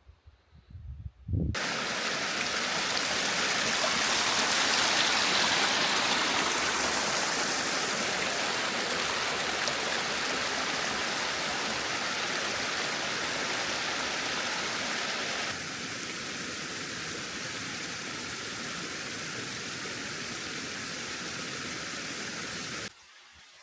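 Rushing water of a small mountain waterfall or stream, a steady loud noise that starts abruptly about a second and a half in, changes slightly about two-thirds through, and cuts off just before the end.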